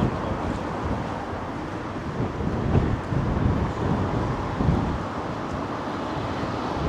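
Night city street ambience: a steady low rumble of traffic, with wind buffeting the microphone in uneven gusts.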